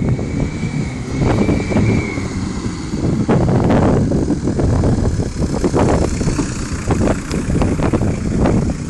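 Peugeot 306 car driving up and pulling in close, its engine running, with wind buffeting the microphone.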